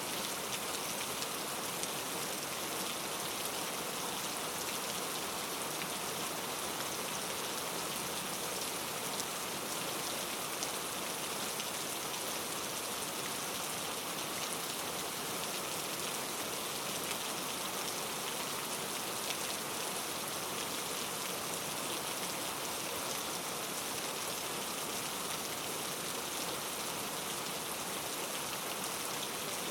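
Steady rain falling, an even hiss of many fine drops with no let-up or thunder.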